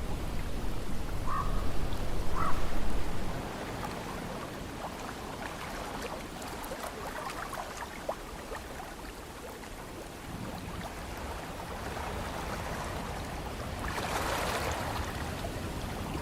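Ocean surf washing steadily, with wind buffeting the microphone as a low rumble that drops away about three seconds in. Two short chirps sound in the first few seconds, and a louder wash of surf comes near the end.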